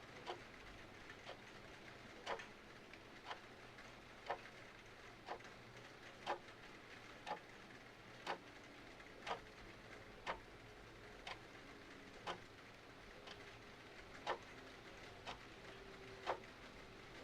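Mechanical clock ticking about once a second, the ticks alternating louder and softer in a tick-tock, over a faint steady hiss of rain.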